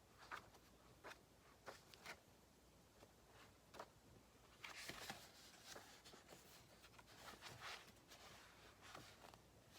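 Faint scratching of a ballpoint pen writing on paper: short strokes, with longer scrawls about five seconds in and again a couple of seconds later.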